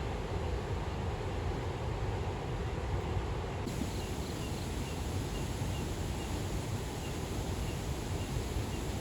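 Steady outdoor noise, mostly a low rumble. From about four seconds in, faint short high chirps repeat about twice a second.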